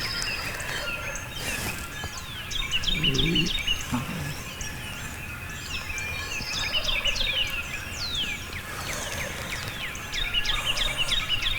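Songbirds chirping and singing in a dawn chorus, with a wild turkey gobbling about three seconds in.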